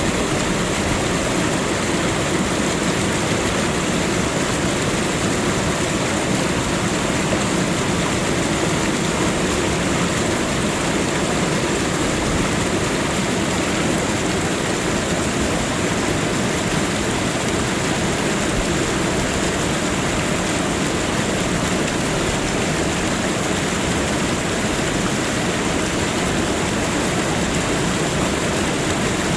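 Waterfall: water pouring and splashing steadily.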